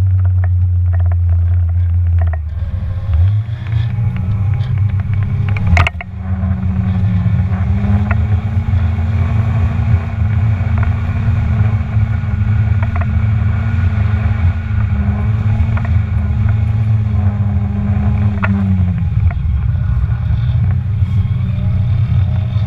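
1996 Mazda Miata's 1.8-litre four-cylinder engine and aftermarket header and cat-back exhaust, heard from on board. The engine note steps up about two and a half seconds in, holds steady until about nineteen seconds in, then drops. A sharp knock near six seconds in and scattered small clicks come from the loose, clanking camera mount.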